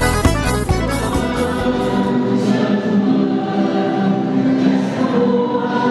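Rhythmic instrumental music with a heavy bass stops about two seconds in, and a choir singing long held notes takes over.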